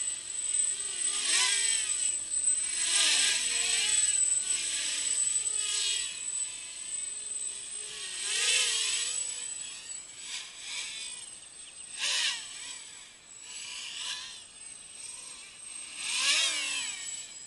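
Small racing quadcopter's brushless motors (DYS 3100 kV) whining, the pitch sliding up and down with the throttle, in several swells of loudness.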